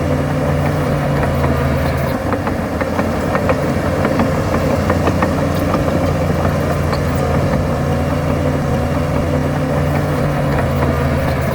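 Heavy earthmoving machine's diesel engine running steadily. Its even note blurs about two seconds in and settles again about halfway through. Scattered short metallic clanks sound over it.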